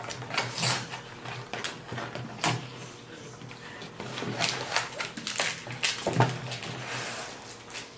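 Plastic snack-bar wrapper crinkling in short, irregular crackles as it is handled.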